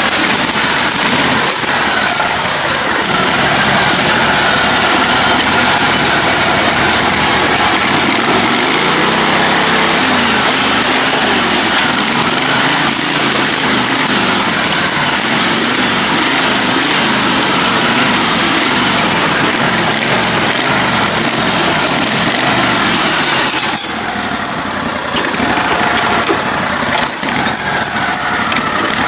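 Modified lifted riding mower's engine running hard on a trail ride, its pitch rising and falling with the throttle, easing off somewhat near the end.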